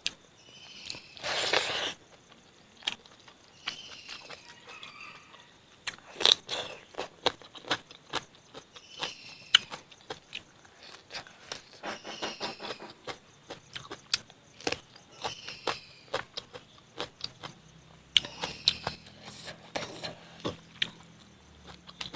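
Close-up mukbang eating sounds: chewing and biting through pork and bamboo shoots cooked with rice powder, with irregular wet mouth clicks and smacks. A louder, brief rustling hiss comes about a second in.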